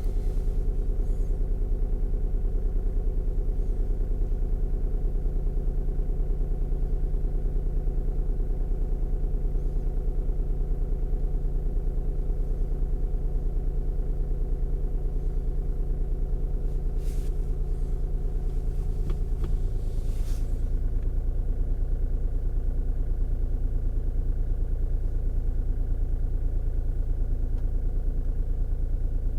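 Skoda Roomster's 1.4 TDI three-cylinder diesel idling steadily, still cold just after a start at about −18 °C. The idle note shifts a little about two-thirds through.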